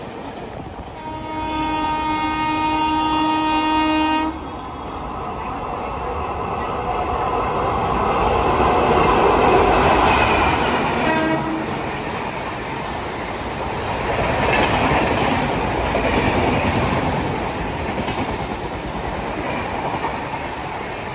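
An Indian Railways locomotive sounds one long, steady horn blast of about three seconds as it approaches, and then a short toot about eleven seconds in. The express then runs through the station at speed, with a continuous rumble and clickety-clack of its LHB coach wheels over the rail joints. The noise is loudest as the locomotive passes.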